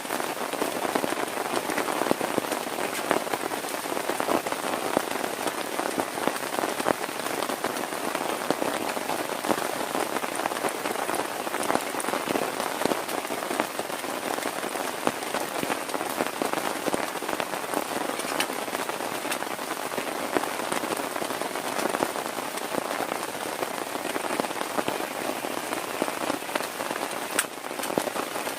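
Heavy rain drumming steadily on a tent, a dense hiss with many sharp individual drop hits.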